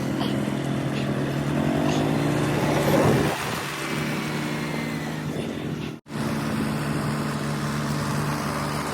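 Mahindra 475 tractor's diesel engine running, revving up to a peak about three seconds in and dropping back to a steady speed. The sound cuts out for an instant about six seconds in, then the engine runs on steadily.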